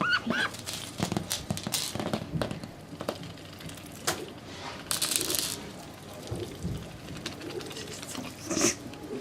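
Domestic duck pecking and knocking at a treat-dispensing toy: scattered clicks and taps, a brief rattling burst about five seconds in, and another sharp knock near the end, with a few soft low calls from the duck.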